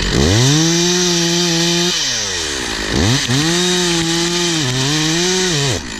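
Two-stroke chainsaw revved to full throttle twice, each burst held about two seconds and dropping back toward idle in between; the pitch sags briefly partway through the second burst, as under load in the cut.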